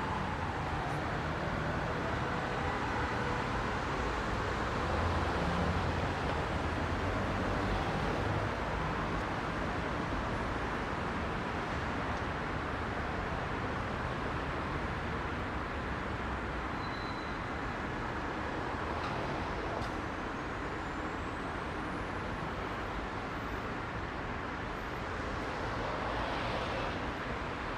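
Heavy rush-hour road traffic: a steady, dense mix of car, bus and truck engines and tyre noise.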